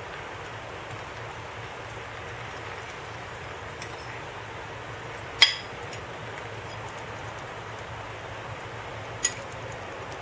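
Butter and olive oil sizzling steadily in a frying pan under a flour tortilla. Three short, sharp clinks sound against it, the loudest about halfway through.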